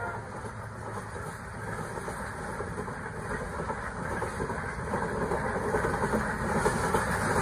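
Passenger coaches of an express train running past at speed, the wheels clattering rapidly over the rails in a steady rushing din that grows louder toward the end.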